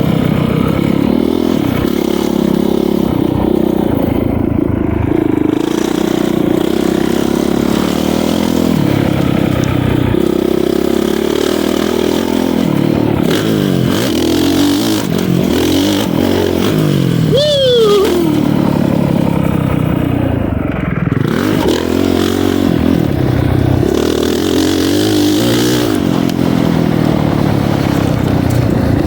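Honda CRF450R motocross bike's single-cylinder four-stroke engine revving up and down through the throttle as it is ridden around a track, with wind noise. About two-thirds through, the engine note drops sharply.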